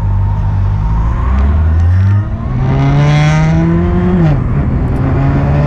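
2007 Honda CB400SF's inline-four engine pulling under acceleration. The revs hold, drop at a gear change about two seconds in, climb again, dip at another shift about four seconds in, then run steady.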